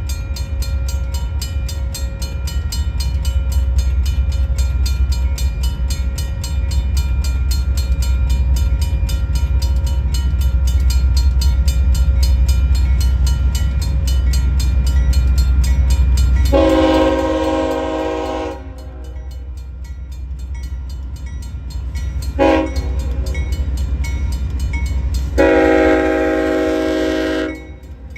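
Diesel freight locomotive with a heavy, steady low engine rumble, then its multi-chime air horn sounds a long blast, a short blast and another long blast, the close of the long-long-short-long grade-crossing signal.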